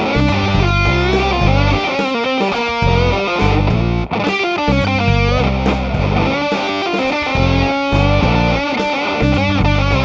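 Electric guitar played through an Earthquaker Devices Sound Shank germanium fuzz pedal: a loud, heavily fuzzed riff with sustained notes that bend in pitch.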